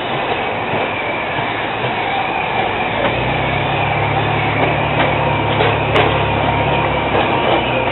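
Small aquarium ride train rolling steadily along its track, a continuous running rumble; a low hum joins in about three seconds in.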